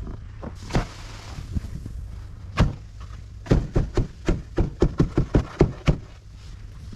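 Footsteps in snow: scattered steps, then a quick run of about ten steps in the second half, over a steady low hum.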